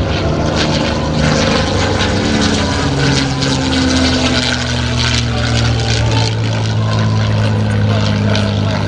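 P-51D Mustang's Merlin V-12 engine and propeller running at high power in a loud fly-by. The engine note drops in pitch as the aircraft passes.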